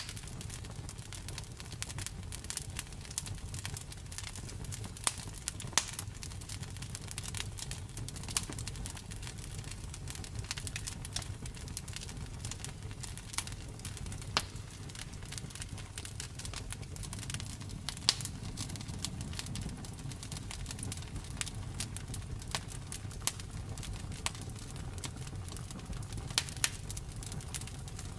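Wood fire crackling: a dense run of small sharp pops and snaps, with a few louder pops here and there, over a steady low rumble.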